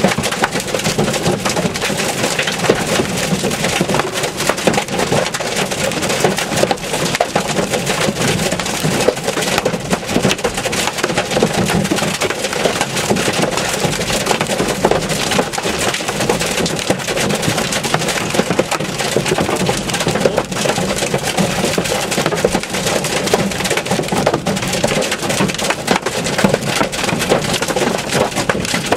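Hail barrage: a dense, continuous clatter of hailstones striking hard surfaces, thousands of sharp impacts with no let-up.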